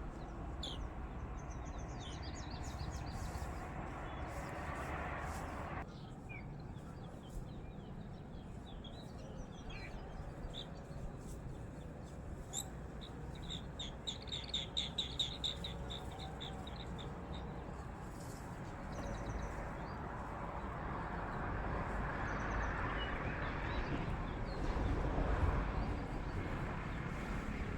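Birds chirping over a steady outdoor background noise, with a quick run of short high notes about halfway through.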